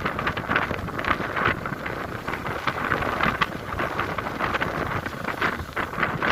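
Strong sea wind buffeting the microphone: a loud, rough, fluttering rush that rises and falls in gusts.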